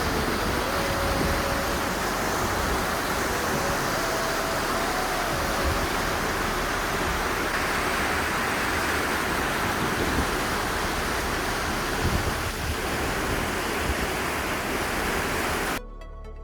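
Steady rushing of a fast-flowing river. It cuts off suddenly near the end as music starts.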